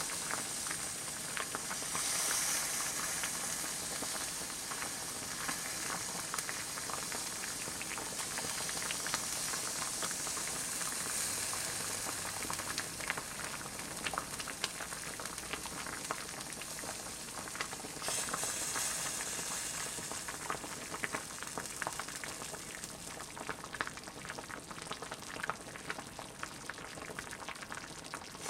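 Doenjang stew boiling in a ttukbaegi earthenware pot: a steady hiss with many small, irregular bubbles popping and crackling.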